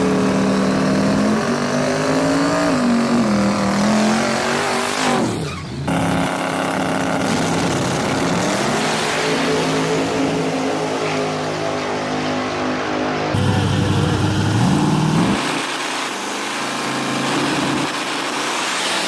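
Race vehicle engines revving and accelerating, their pitch rising and falling repeatedly, with a brief dip in level around five and a half seconds in.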